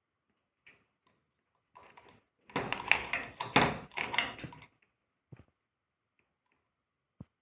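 Two pet parrots squabbling: a loud burst of scuffling and squawking lasting about two seconds, starting a couple of seconds in, with a few faint clicks and taps before and after.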